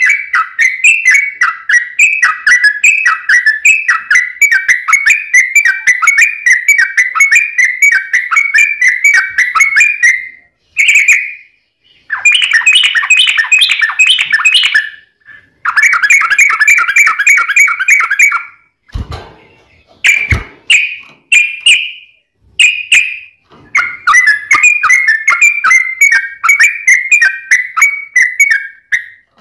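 Yellow-vented bulbul (trucukan) singing long runs of rapid, chattering whistled notes, broken by a few short pauses. Two soft thumps come about two-thirds of the way through.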